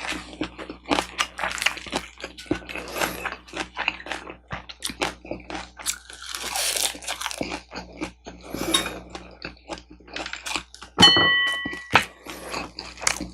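Close-miked eating: crunchy bites and chewing with many small wet clicks. Near the end, a short ringing clink, the loudest sound.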